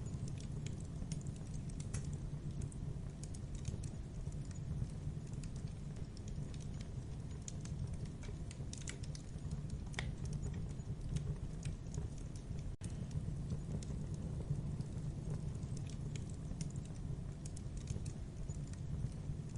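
Wood fire in a fireplace crackling: irregular sharp pops and snaps over a steady low rumble of burning. A brief dropout about two-thirds of the way through.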